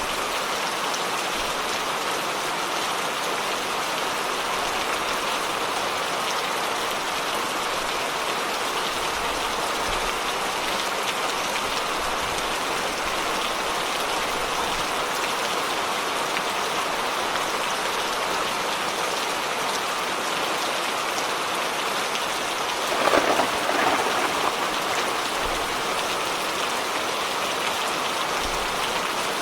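Steady rain falling, an even hiss with no let-up, with one short louder burst about 23 seconds in.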